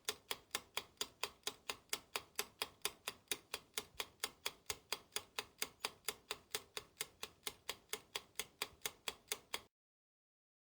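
Ticking clock sound effect: a steady, fast tick about four times a second that cuts off suddenly near the end.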